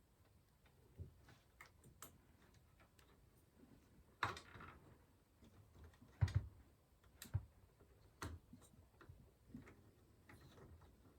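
Light clicks, taps and knocks of PC parts and cables being handled during a build, with a short scrape about four seconds in and a few sharper knocks a couple of seconds later.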